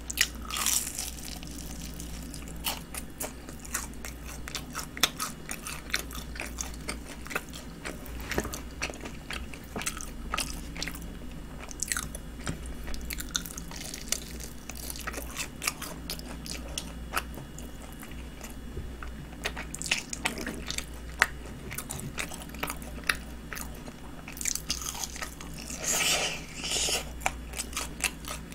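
Close-up crunching and chewing of honey-glazed fried chicken: many small crisp crackles of the coating breaking between the teeth, with steady chewing.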